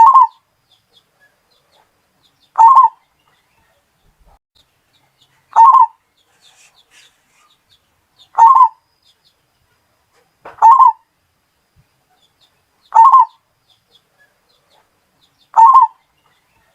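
Zebra dove (perkutut) cooing: a short coo phrase pitched around 1 kHz, repeated seven times at an even pace of about one every two and a half to three seconds.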